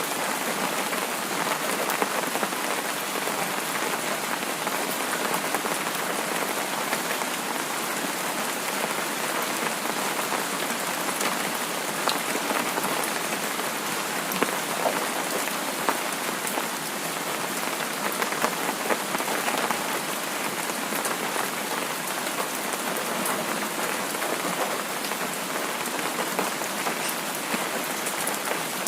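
Steady, even rain falling on a surface, with many individual drops pattering.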